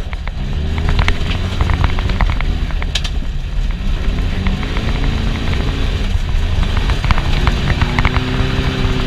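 Air-cooled VW Beetle 1641cc flat-four engine heard from inside the cabin, revving up and dropping back about four times as the car is driven hard offroad. Sharp knocks and rattles from the body and underside come through over the engine.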